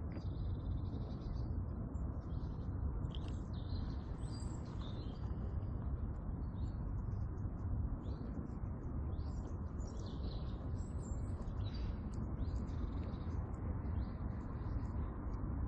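Small birds chirping and calling now and then, over a steady low rumble.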